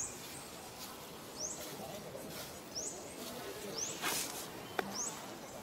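A bird repeating a short, high chirp that rises in pitch, about every second and a half, over a low murmur of distant voices. There is a brief rushing noise about four seconds in and a sharp click just before five seconds.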